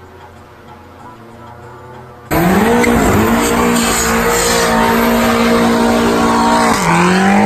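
A car engine revved hard and held at high revs while the tyres squeal and skid, starting suddenly about two seconds in. The revs dip briefly near the end and climb again.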